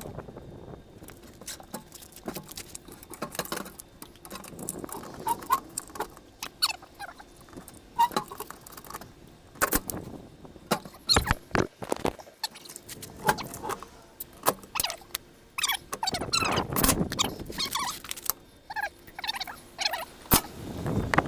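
Irregular metal clanks, clicks and rattles of hand tools working on a bent metal support bracket under a camper, with a few sharper knocks and some short squeaks.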